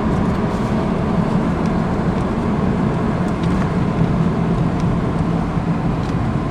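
A car driving: steady engine and road rumble with a low hum.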